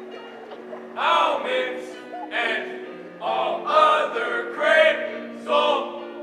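A group of voices singing a choral piece, with held low notes sustained under a melody sung in distinct syllables.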